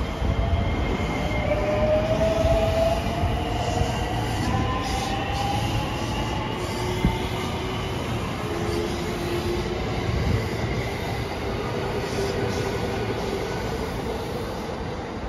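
Electric commuter train running past on the adjacent track. Its motors give a whine that rises slowly in pitch over the first several seconds as the train gathers speed, over a steady rumble of wheels on rail.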